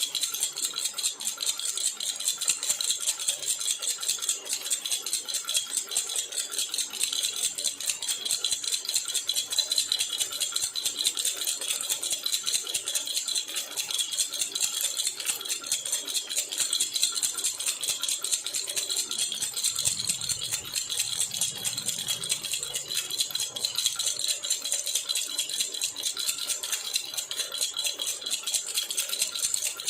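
Baby rattle (jhunjhuna) shaken without pause, a rapid, steady metallic jingling.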